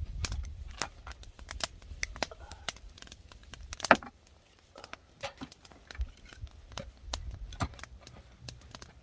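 Wood fire crackling, with scattered sharp pops and snaps and one loud snap about four seconds in, over a low rumble of wind on the microphone.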